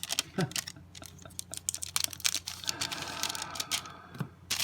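Trading cards being handled and flipped through by hand: a run of quick light clicks and snaps as card edges strike one another, with a longer papery rustle near the end.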